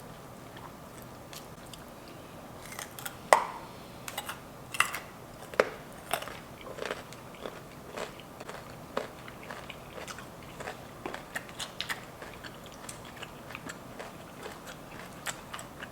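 Close-up eating sounds of a crunchy raw vegetable stick: after about three seconds, one loud crunching bite, then steady, irregular crunchy chewing.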